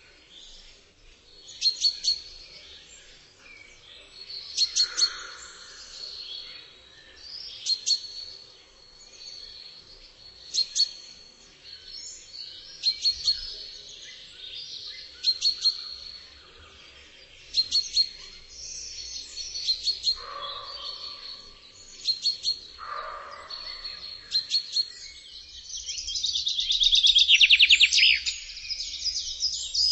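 Birdsong: short bursts of high chirps every two to three seconds, with a louder rapid trill starting near the end.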